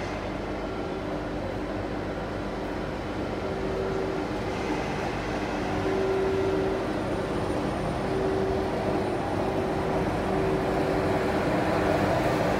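Thalys PBKA high-speed trainset pulling slowly out of the platform: a steady running hum with a pulsing mid-pitched whine, getting louder about halfway through.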